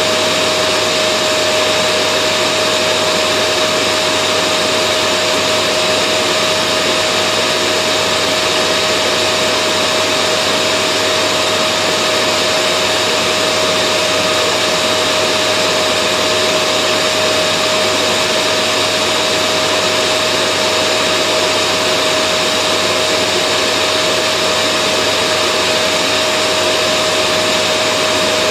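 Vacuum cleaner running continuously with a steady whirring hum and a constant high whine, no change in speed.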